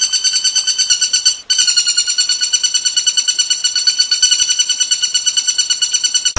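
A bird's high, rapid pulsing trill, about eight to nine pulses a second, running on with one short break about a second and a half in.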